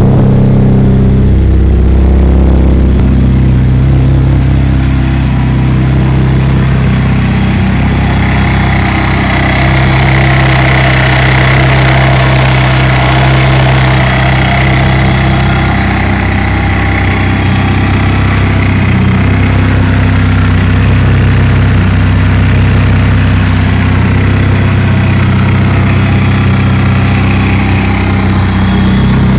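2006 Chevrolet Cobalt SS's supercharged 2.0 L LSJ four-cylinder, fitted with a newly installed Harrop TVS supercharger, header and 3-inch exhaust, idling steadily on its first startup. A thin steady high whine sits over the idle. It is heard first at the tailpipe, then at the open engine bay.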